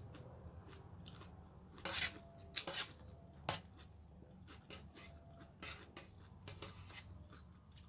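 Eating sounds: a utensil clinking and scraping against a bowl of raw vegetable salad in a few sharp clicks, loudest about two to three and a half seconds in, between quieter chewing.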